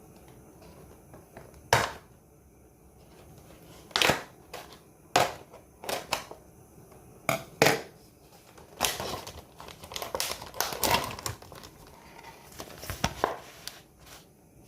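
Plastic food packaging crinkling and crackling as it is handled, in separate sharp crackles at first and then in denser bunches near the end.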